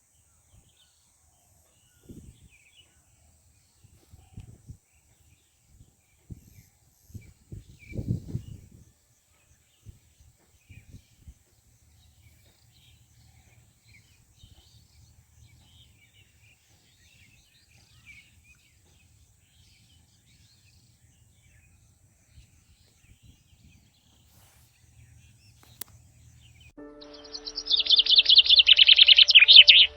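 Quiet rural ambience with scattered low thumps and faint, occasional bird chirps. Near the end a loud, dense chorus of high bird chirping starts abruptly over steady low tones.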